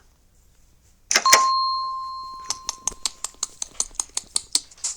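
A single bell-like ding about a second in, ringing out and fading over about two seconds, followed by a run of sharp, evenly spaced clicks, about six a second.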